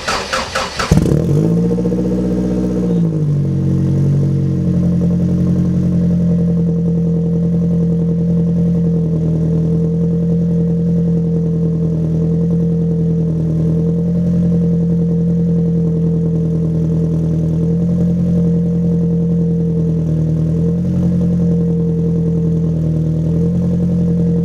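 Ford Focus Mk1 RS's turbocharged 2.0-litre four-cylinder cold-started on a frosty day: it cranks briefly and catches within the first second. The revs rise and drop back over the next two seconds, then it settles into a steady idle.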